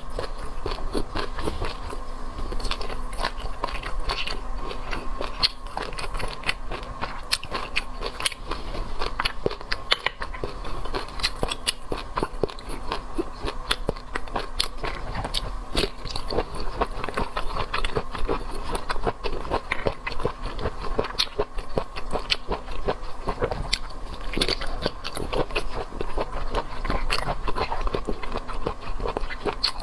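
Close-miked eating: steady chewing and biting of seafood, with moist clicks, crunches and smacks coming thick and fast throughout.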